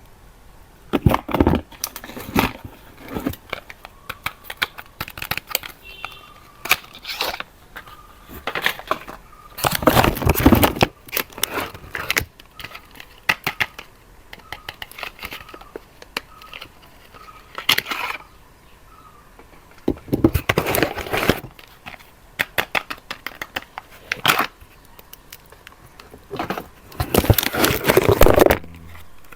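Soap wrapping crinkling and tearing as bars are unwrapped by hand, in irregular crackly bursts with three louder stretches of crinkling: about a third of the way in, two-thirds in, and near the end.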